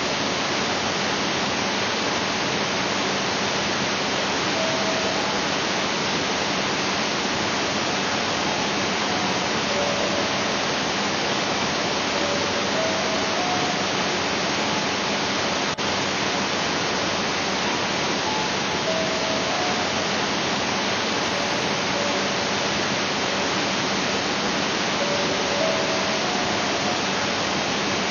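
Steady, unbroken rush of a waterfall, with faint, slow single notes of soft background music sounding through it now and then.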